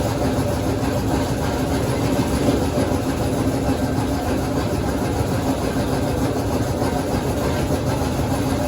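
An engine running steadily at idle, an even hum with one constant low tone and no change in speed.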